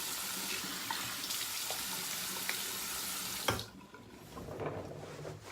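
Bathroom sink tap running steadily into the basin as a face is rinsed, then shut off with a knock about three and a half seconds in.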